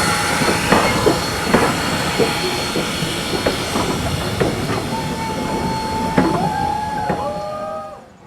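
Steam-hauled passenger train rolling past, its wheels knocking irregularly over the rail joints over a steady rumble. From about five seconds in, wheels squeal with several held, slightly wavering tones. The whole sound drops away sharply just before the end.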